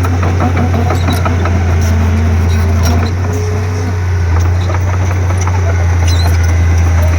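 Komatsu D31P bulldozer's diesel engine running with a steady deep drone, with scattered clicks and rattles over it.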